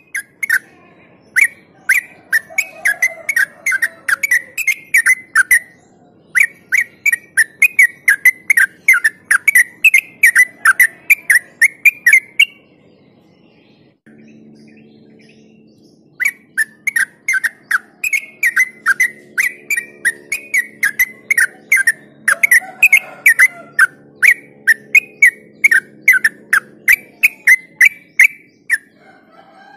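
Yellow-vented bulbul singing its long, rapid chattering song: quick whistled notes, about three a second, in two long runs separated by a pause of a few seconds. A faint low hum runs underneath the second run.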